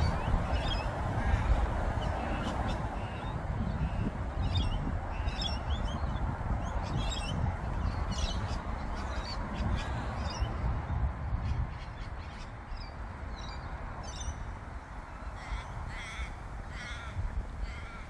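Several birds calling: short, high chirps and harsh calls that come again and again, with a few longer calls near the end, over a steady low rumble.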